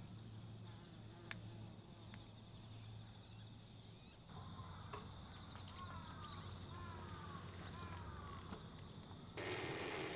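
Night insects trilling steadily at a high pitch, with a run of short falling chirps in the middle and a few single clicks over a low steady hum. Near the end a louder rushing noise starts.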